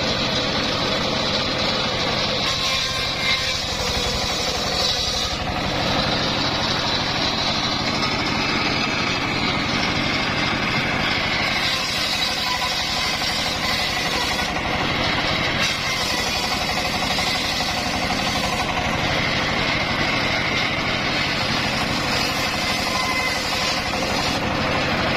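Homemade engine-driven circular saw rig running steadily, its motor and blade making a continuous loud mechanical din.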